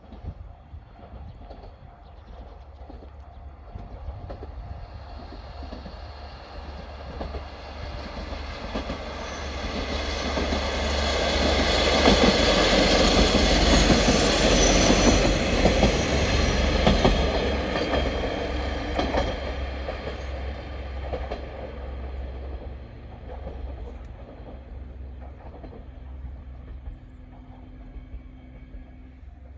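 KiHa 47-type diesel railcar train passing by: its engine hum and wheel noise grow louder, are loudest for several seconds around the middle with the wheels clacking over the rail joints, then fade away.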